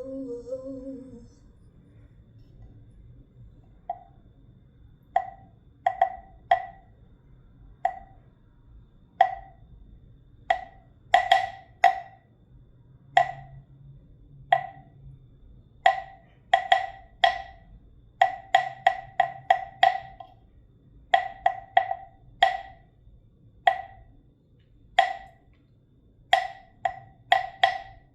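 A soft hummed note ends about a second in. Then a wooden wind chime clacks in the wind: short, hollow knocks of the same pitch at uneven intervals, sparse at first, then in quick clusters of two to four.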